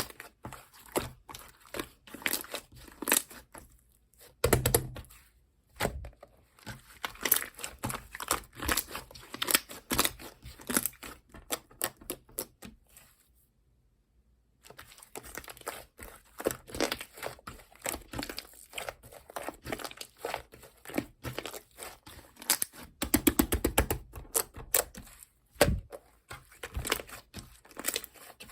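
Slime being squeezed, stretched and poked by hand: a dense run of short sticky clicks and crackles, with a brief pause about halfway through and a fast burst of clicks near the end.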